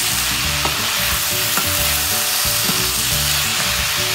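Diced cabbage and onion sizzling in a hot nonstick wok while a wooden spatula stirs them, with a few light knocks of the spatula against the pan.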